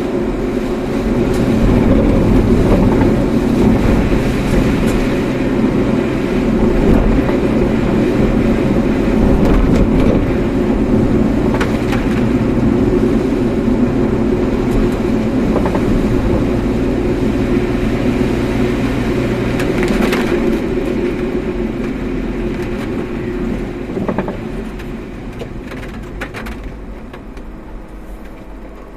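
Car driving along a road: steady engine and tyre rumble with a few brief knocks, dying down over the last few seconds.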